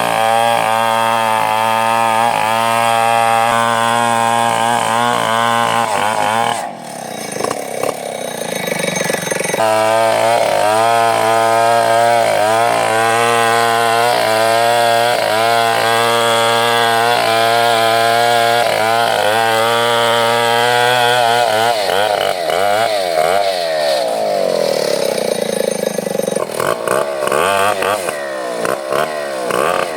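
Chainsaw running hard, cutting wood, its engine pitch wavering under load. About seven seconds in it drops briefly and comes back up to full speed; in the last third the revs repeatedly fall and rise.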